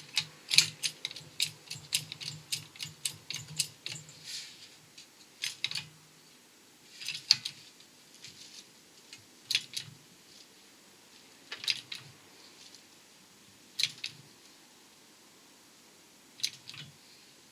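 Hand lever of a 6-ton hydraulic shop press being pumped, clicking with each stroke: quick clicks for the first few seconds, then single clicks about every two seconds. The press is building pressure against a wheel bearing that does not come out of the hub.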